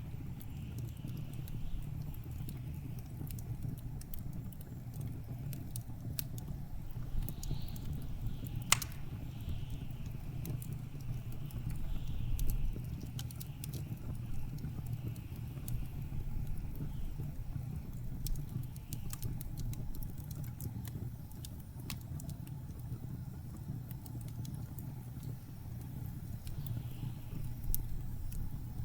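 Wood fire crackling with scattered small pops and one sharp crack about nine seconds in, over a steady low rumble of blizzard wind.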